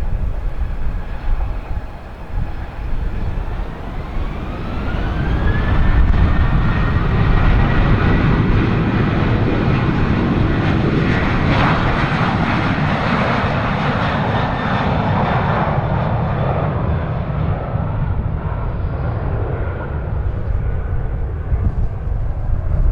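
Boeing 737-800 jet engines spooling up to takeoff thrust, their whine rising in pitch about four seconds in and then holding steady. A broad roar swells to its loudest about halfway through as the airliner takes off, then slowly fades as it climbs away.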